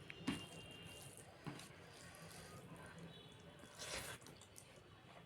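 Faint wet eating sounds from a meal of rice and fish curry, with a few soft smacks and clicks, the loudest about four seconds in.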